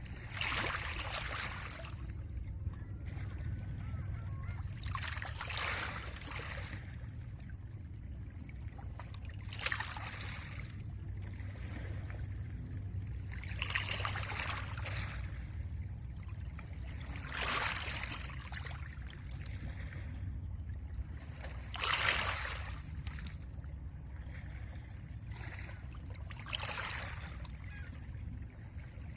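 Small lake waves breaking gently on a pebble shore. A hissing wash of water over stones comes about every four seconds, seven in all, with a steady low rumble underneath. The wash a little past three-quarters of the way through is the loudest.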